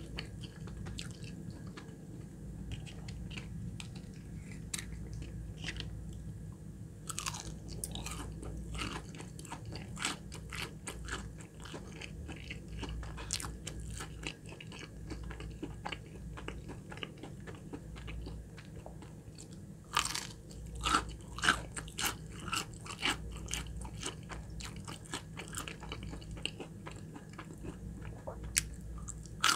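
Close-miked chewing of crispy Popeyes fried chicken nuggets: a string of sharp crunches and wet chewing, with louder bites about two-thirds of the way through.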